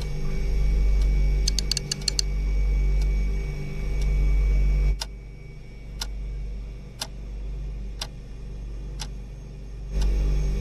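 A low steady hum that cuts off suddenly about halfway through, followed by sharp ticks evenly spaced once a second, like a clock ticking.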